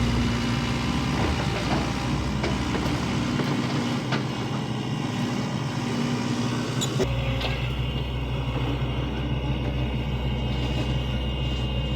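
Heavy diesel engine of a tipper truck or grader running steadily during a vehicle recovery, its low rumble changing abruptly about seven seconds in, with a few sharp knocks.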